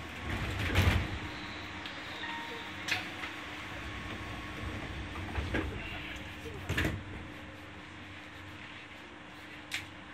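Running noise heard inside a Keihan 8000 series electric train car: a steady rumble and hum, broken by irregular sharp clacks as the wheels pass over rail joints and points.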